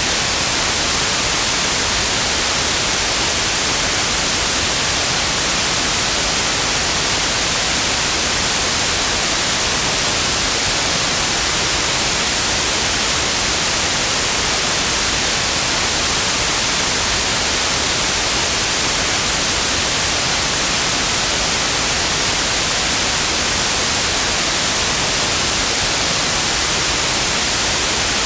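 Synthetic white noise: a steady, even hiss that does not change, strongest in the treble.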